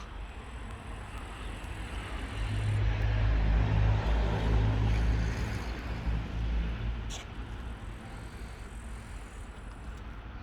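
ChME3 diesel shunting locomotive's engine running with a deep, steady rumble that swells to a peak about four seconds in and then fades, as the locomotive passes. A short click comes about seven seconds in.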